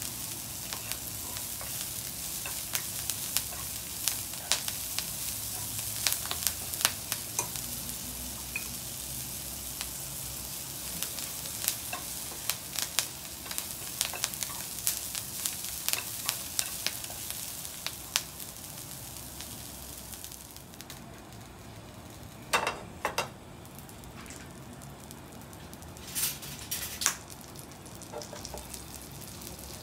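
Kale sizzling as it is stir-fried in a non-stick frying pan, with chopsticks clicking and scraping against the pan. About two-thirds of the way through the sizzle drops away, leaving a few scattered clicks.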